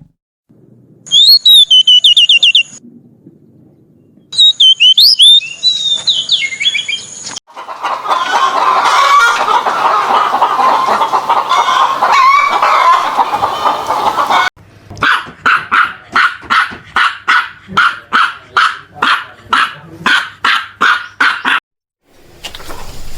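A run of separate bird sound clips, likely poultry. First come two short, high chirping calls with falling whistled notes. Then several seconds of noisy flock chatter, and finally a run of about twenty regular calls, roughly three a second.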